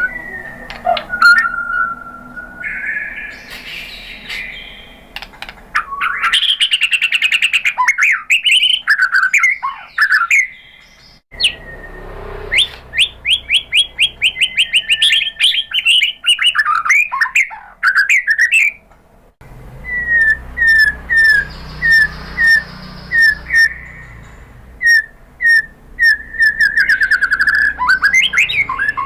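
White-rumped shama (murai batu) singing a loud, varied song: clear whistled phrases and fast runs of sharp repeated notes, then in the second half a string of short downslurred whistles about two a second, ending in a rapid run of notes.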